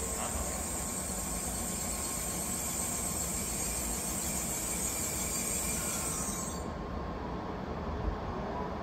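N700-series Shinkansen train rolling slowly past the platform: a steady rumble from the wheels and running gear. A high hiss over it cuts off about two-thirds of the way through.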